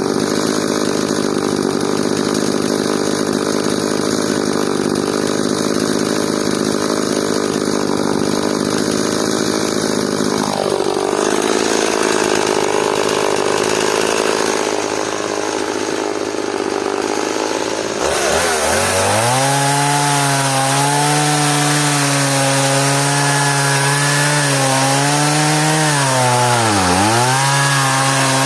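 Stihl MS180 two-stroke chainsaw cutting hard elm, the engine running under load. About two thirds in the sound changes abruptly, and the engine pitch sags and dips twice near the end as the chain bites into the wood.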